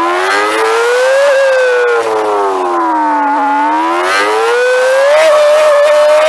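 Motorcycle engine heard from the rider's seat on a track lap: the revs rise, fall away as the throttle eases, then climb again and hold high near the end as the bike accelerates out of a corner, with wind noise over the microphone.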